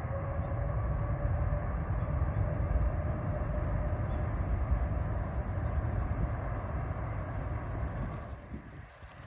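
Jet airliner passing low overhead: a loud, deep engine rumble with a faint whine that swells in, holds for about eight seconds and fades away near the end.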